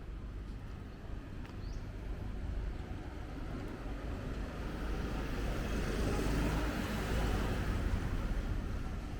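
Street traffic on a wet road: a vehicle passes, its tyre hiss and engine noise swelling to a peak about six to eight seconds in, then easing.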